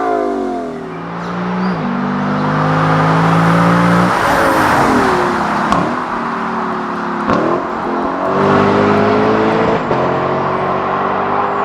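Lexus LC 500's 5.0-litre V8 exhaust pulling under load. The note holds steady or climbs slowly, then drops sharply several times, the clearest about four seconds in, as the revs fall at gear changes or when the driver lifts off.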